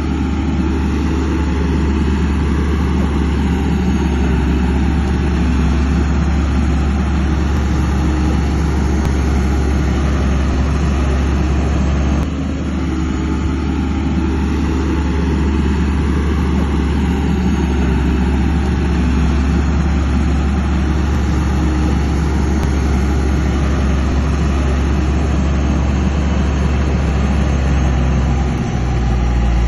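Bulldozer's heavy diesel engine running steadily, a deep low drone, with a brief dip about twelve seconds in and a change in its low note near the end.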